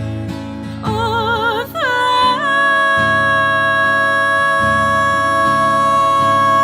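Soul song with acoustic guitar: a singer's voice comes in about a second in with a wavering note, then holds one long steady note for about four seconds.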